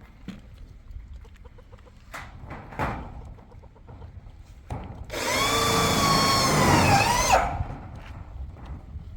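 A rooster crowing once, loudly and harshly, for about two and a half seconds starting about five seconds in. The call holds its pitch and then drops and wavers at the end.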